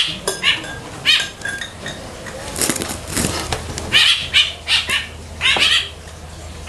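A bird chirping repeatedly: short, high chirps that drop in pitch, coming one or two a second. Around the middle there is a brief flurry of rustling, like wings flapping.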